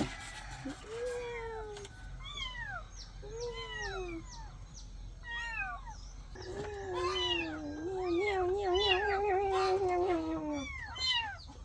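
Hungry kittens meowing over and over in short cries that fall in pitch, some overlapping. About halfway through comes one long wavering cry lasting a few seconds.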